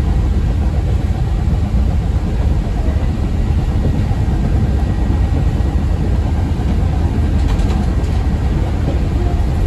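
Steady low rumble of a CTA 5000-series rapid-transit car running along the track, heard from inside the passenger cabin, with a few faint clicks near the end.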